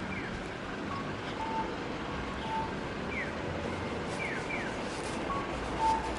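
Outdoor ambience with a steady low rumble and hiss, and birds calling over it: repeated short falling chirps and brief whistled notes.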